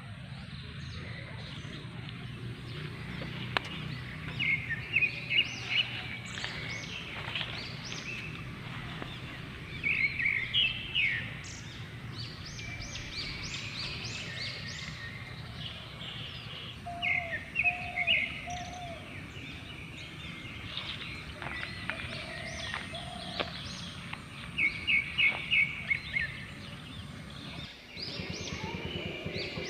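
Birds singing in the open: one songbird repeats a short, quick phrase of several bright notes four times, about every six or seven seconds, while a lower call of a few short notes comes in twice. A steady low rumble of background noise runs underneath.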